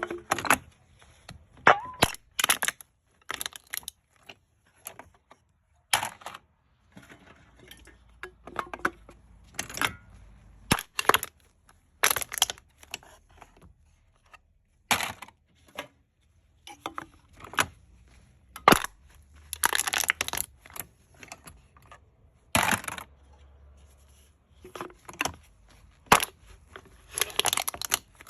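Cans being crushed: a long run of irregular sharp crackles and crunches of buckling metal, some loud, with short quiet gaps between.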